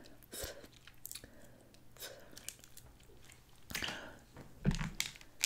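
Close-miked chewing and wet mouth sounds of a person eating snow crab meat, with scattered soft clicks and smacks.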